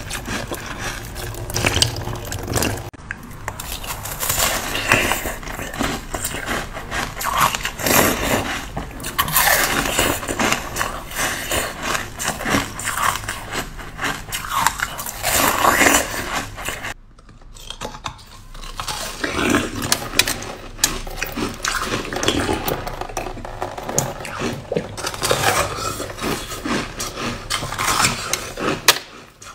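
Ice being bitten and chewed close to the microphone: dense, irregular crunching and cracking with some scraping, broken by a short lull a little past halfway.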